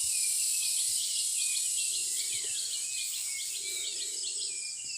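Small birds chirping in quick, repeated short calls over a steady high hiss of background ambience.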